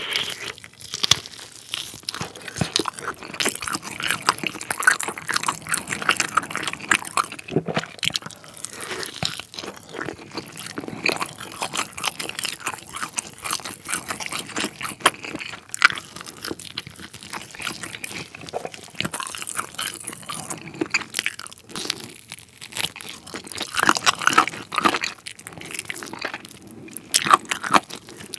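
Close-miked biting and chewing of a spicy glazed grilled chicken leg, skin and meat together: a steady, dense run of mouth clicks and smacks.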